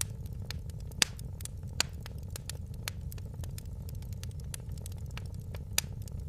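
Fire crackling in a fireplace: a steady low rumble of the flames under many sharp pops and snaps, with louder pops about a second in, near two seconds and near the end.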